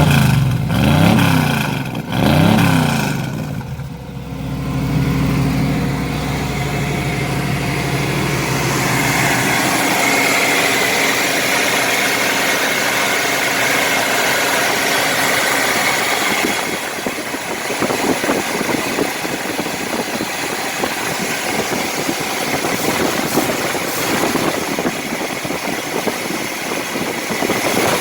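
Carbureted 5.7-litre 350 Vortec small-block V8 blipped twice, the revs rising and falling, then settling into a steady idle through its newly done exhaust.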